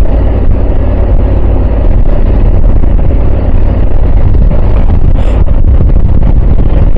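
Motorcycle engine running at a steady road speed under a heavy, even rumble of wind on the microphone.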